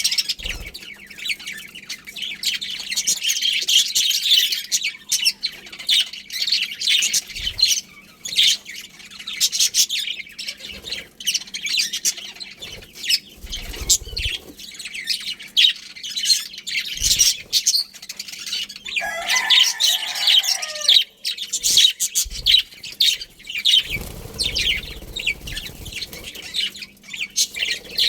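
A flock of budgerigars chirping and chattering nonstop in a dense, high-pitched chorus. A lower, warbling call stands out for about two seconds around two-thirds of the way through.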